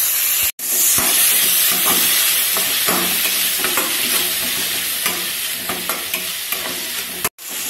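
Chopped tomatoes sizzling in hot oil with onions and green chillies in a non-stick kadai, a metal spatula scraping and stirring them round the pan in short strokes. The sound cuts out for an instant twice, about half a second in and near the end.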